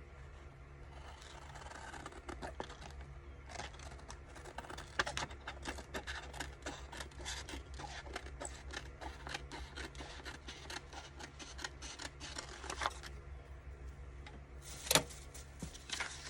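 Scissors cutting paper: a long run of quick irregular snips and paper rustles, then a single sharp click near the end.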